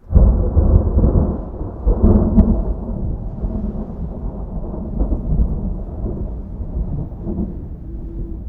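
A deep rumble of thunder that breaks in suddenly and rolls on, slowly easing off.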